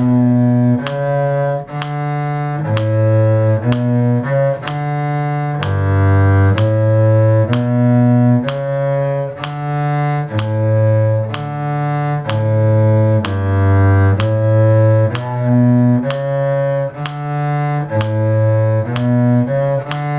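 Cello bowing the bass line of a slow tune in D major, one low note about every second with short breaks between them.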